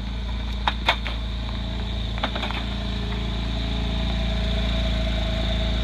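Sports car engine idling steadily, with a few sharp clicks about a second in and again around two seconds.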